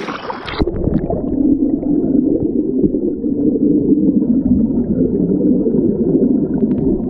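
Rushing water of a creek rapid heard underwater: the camera goes under about half a second in, and the sound turns to a steady, muffled low rushing with all the hiss of the splashing gone.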